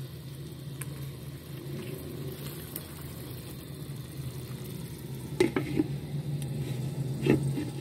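Thick pumpkin and beef curry sizzling in a pan as a flat spatula stirs and scrapes through it, over a steady low hum. A few sharp knocks of the spatula against the pan come a little after five seconds in and again near the end.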